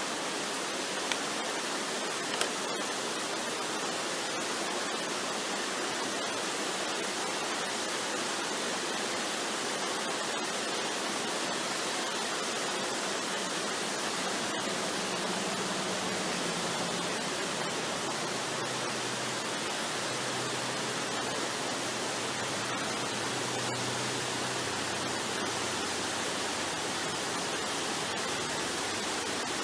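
Waterfall rushing: a steady, even hiss of falling water, with faint low tones rising under it through the middle.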